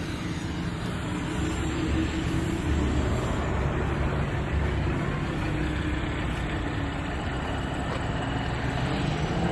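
A vehicle engine running steadily at low revs, a deep even hum.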